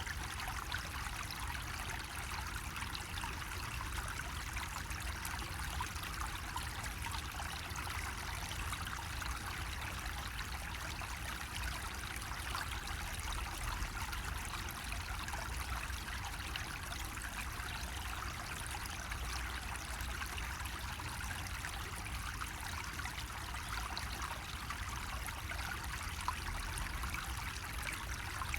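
Water from a bamboo faucet trickling and splashing steadily, with an even, unbroken splashing hiss and a steady low rumble underneath.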